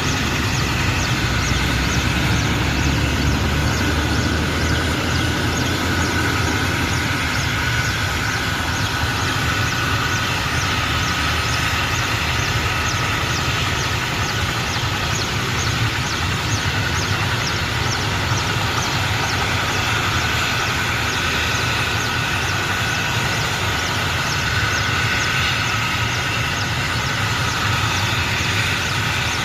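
Helicopter running steadily: a constant turbine whine over a low rumble, with the fast, even chop of the rotor blades.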